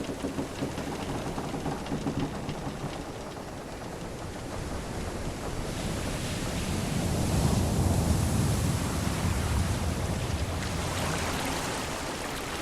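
Sea waves washing against a ship, a steady rush that swells to a heavier surge about seven to eight seconds in and then eases off.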